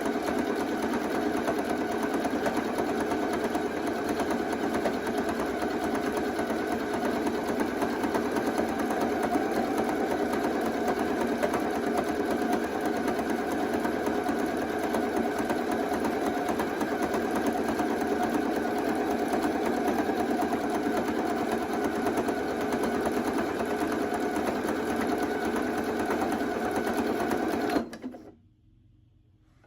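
Janome Travel Mate 30 sewing machine running steadily at an even speed, stitching, then stopping abruptly near the end.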